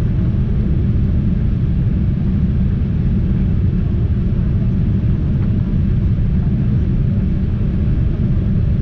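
Steady low rumble of a Boeing 787-8 airliner's engines and airflow heard from inside the passenger cabin, even and unchanging throughout.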